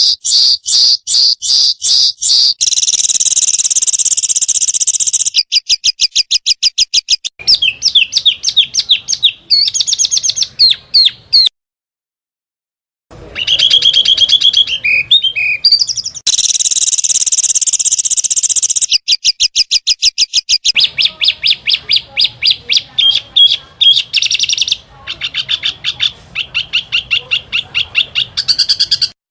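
Small songbirds singing rapid-fire 'tembakan' phrases: fast runs of repeated high chirps, trills and buzzy rattles, in abruptly joined segments with a silent break of about a second and a half near the middle.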